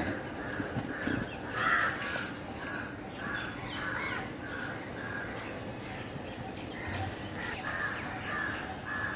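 Birds calling repeatedly, a run of short calls, a pause, then another run.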